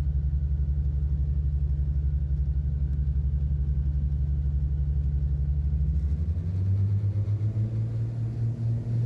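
Twin piston engines of a Cessna 402 running with a fast, steady, throbbing drone. From about six seconds in, the engine note rises steadily as power is added.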